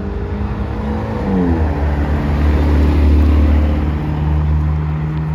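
Car engine under load; its pitch drops about a second in, as at a gear change, and the low engine sound then swells, loudest around three seconds in.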